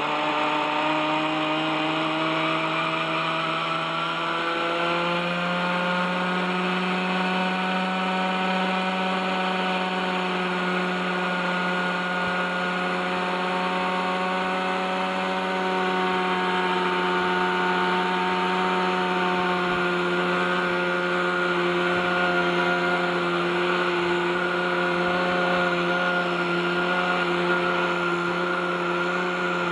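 OS 61SF glow engine of an RC helicopter running steadily at hover. Its pitch steps up about five seconds in, then holds with slight wavering. The engine had sat seized for over thirty years without maintenance and was freed with oil; the owner says its rusty bearings add resistance.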